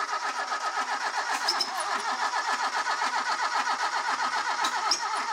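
Toyota 4A-GE four-cylinder engine turning over on its starter motor without catching: a steady, even churning rhythm of about six pulses a second. The engine is completely out of time, so it does not fire.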